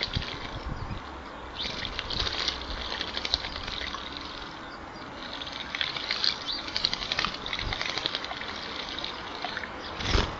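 Small birds bathing in a shallow bird bath, splashing water in repeated short bursts.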